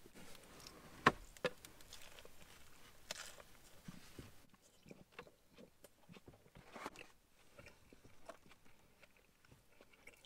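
A person biting into a grilled chicken burger and chewing it with the mouth close to the microphone: faint munching with small wet clicks. A sharp click about a second in is the loudest sound.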